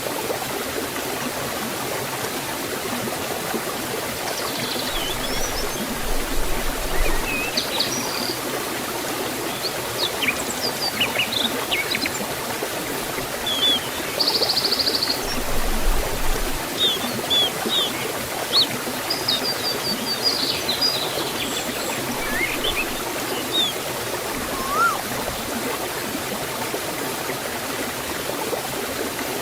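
Waterfall and forest stream running steadily, with birds chirping and calling on and off over the water for much of the time, including one short buzzy trill.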